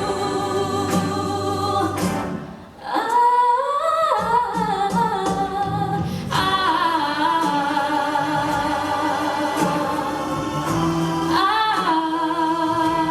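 A woman singing long held notes and sliding, wavering runs without clear words, over musical accompaniment, with a short break about two and a half seconds in.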